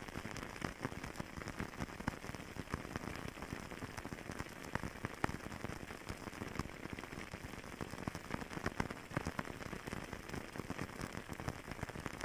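Wood fire crackling steadily, with many small irregular pops and snaps.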